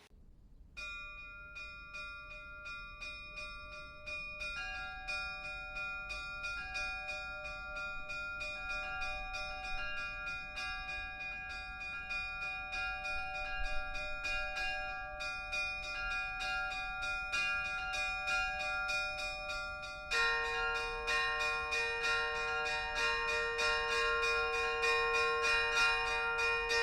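Church bells ringing in quick repeated strokes, several bells' tones sounding together. About twenty seconds in, a lower bell joins and the peal grows louder.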